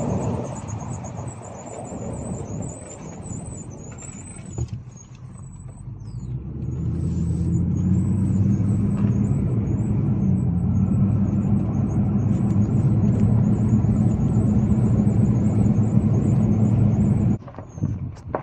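Motor vehicle running: a low, steady engine and road drone that builds up about six seconds in and cuts off suddenly near the end.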